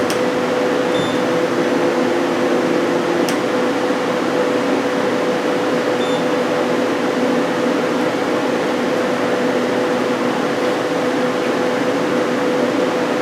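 Hyundai Kia SKT-250LMS CNC lathe running with its live tool spindle turning at a low 500 RPM: a steady mechanical hum with a held whine, and a single click about three seconds in.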